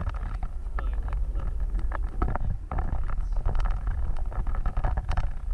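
Off-road vehicle driving over a rough track: a steady low rumble with frequent knocks and rattles as it bumps along.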